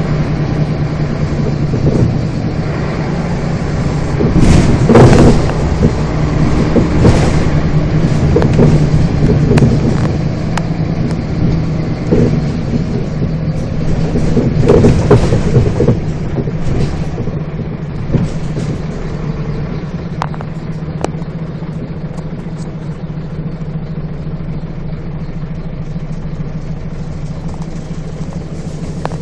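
Scania bus diesel engine running, heard from on board, with a steady low hum throughout. Two louder noisy swells come about five and fifteen seconds in, and the sound settles steadier and quieter in the second half.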